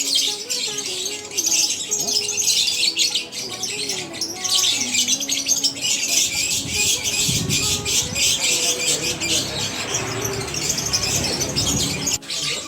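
Many caged birds chirping and squawking at once, a dense, continuous chatter of high calls.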